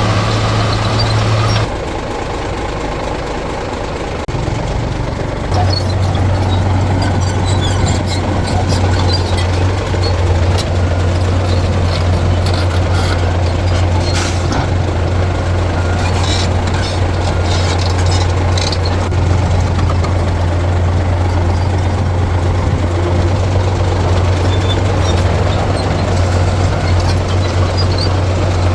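Heavy diesel earthmoving machinery running steadily, with scattered metallic knocks and clanks. The engine sound drops about two seconds in and comes back up about five seconds in.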